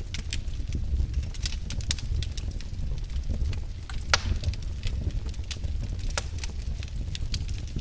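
Wood fire crackling in a fireplace: irregular sharp pops and snaps over a steady low rumble, the loudest pop about four seconds in.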